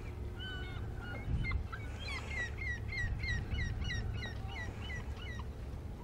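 Birds calling: a rapid run of short, hooked chirps, about three a second and busiest in the middle, over a low steady rumble.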